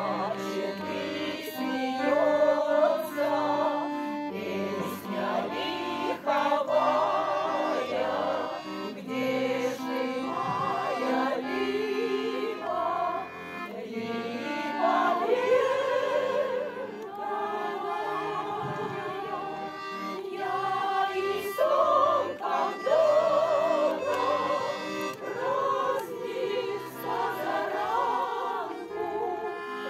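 A vocal ensemble singing a Russian song in chorus, with wavering, vibrato voices over instrumental accompaniment.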